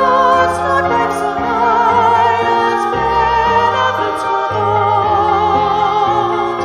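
Classical-style sung vocals with marked vibrato, holding long notes over sustained low accompaniment.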